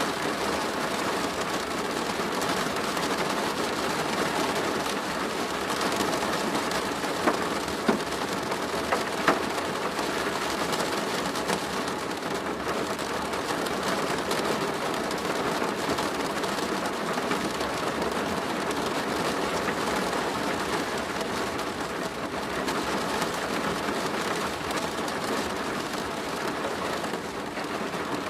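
Steady rain falling on a plastic roof, with a few sharp louder drop hits about a third of the way in.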